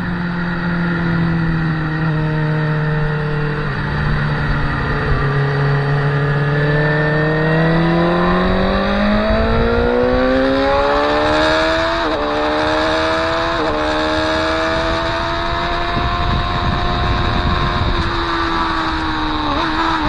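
Motorcycle engine under way: the pitch sags briefly, then climbs steadily under hard acceleration, with two quick upshifts in a row about twelve and fourteen seconds in, then holds steady before a brief dip near the end. Wind rush grows as the speed rises.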